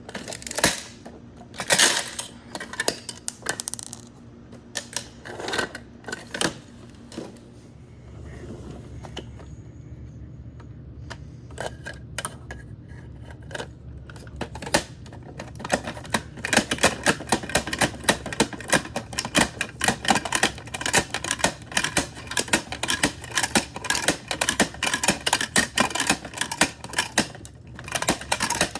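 Plastic toy garbage truck parts clicking and clattering. There are scattered clicks at first, then a dense run of rapid clicks for most of the second half.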